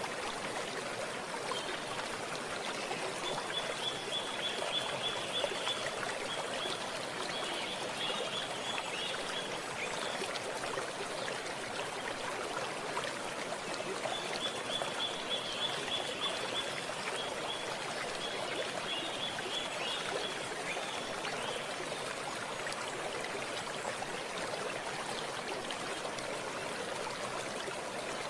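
Stream water running and trickling steadily. Twice, for several seconds each time, a high, rapid series of chirps sounds over it.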